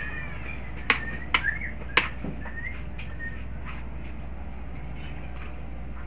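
Small birds chirping over a steady low background hum, with three sharp clicks in the first two seconds.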